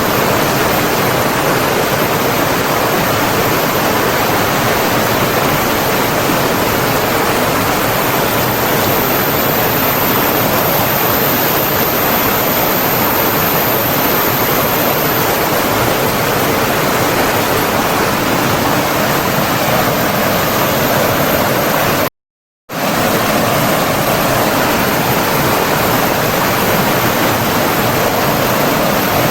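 Steady, even rush of running water from a stream or waterfall. About two-thirds of the way through, it cuts out completely for about half a second, then resumes as before.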